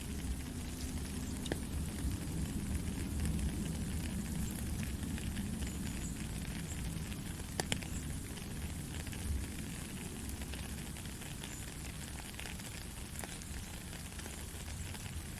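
Steady gentle rain, a constant hiss of drops with a low rumble beneath and scattered sharper drop taps, one standing out about halfway through.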